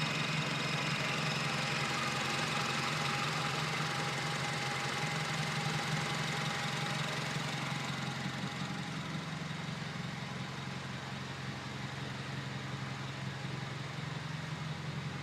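Honda R18 1.8-litre four-cylinder engine of a 2008 Civic idling steadily, breathing through a Weapon R header, short ram intake and Skunk2 Megapower cat-back exhaust. It grows a little fainter in the second half.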